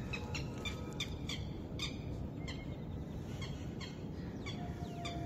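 Small birds calling outdoors, short repeated chirps a few times a second over a steady low background rumble. A steady single-pitched tone comes in near the end.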